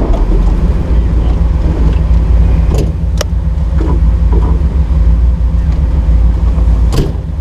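Nissan GQ Patrol engine running steadily under load, with sharp knocks twice around three seconds in and once more near the end.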